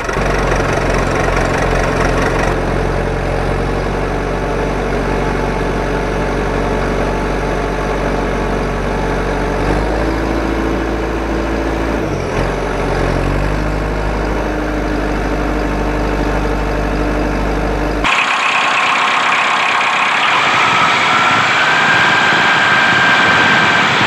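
An engine running steadily with a deep, even hum. About 18 seconds in it changes abruptly to a higher, noisier motor sound with a whine that rises and then holds.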